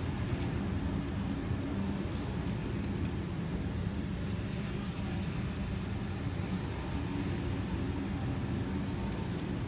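Series 2 Waratah electric double-deck passenger train passing: a steady low rumble of the carriages running over the track.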